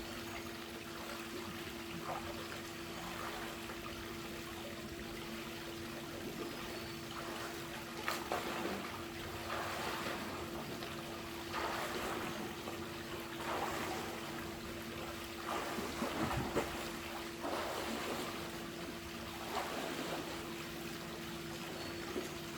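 Water splashing in a swimming pool as a swimmer does laps, the strokes coming in surges about every two seconds through the middle and later part, over a steady low hum.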